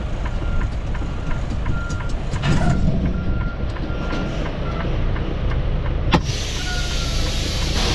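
Semi truck sitting in the cab with the diesel engine running, under an even ticking with short regular beeps. A brief hiss comes about two and a half seconds in, and a sharp click about six seconds in is followed by a steady rushing hiss.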